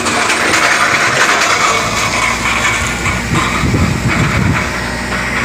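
A vehicle engine running, with a steady hiss over it and a brief low rumble a little past the middle.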